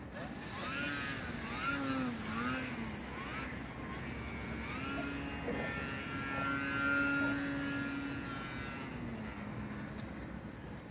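Radio-controlled Edge 540 aerobatic model plane's motor running in flight. Its note swoops up and down several times in the first few seconds as the plane manoeuvres, then holds a steady pitch and falls away near the end.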